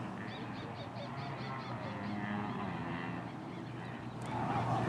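Birds calling: a quick run of high, evenly spaced chirps over the first second and a half, then lower, honking calls through the middle.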